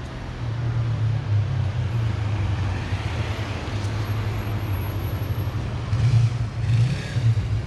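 City street traffic: a steady low rumble of motor vehicles, swelling a few times about six to seven seconds in.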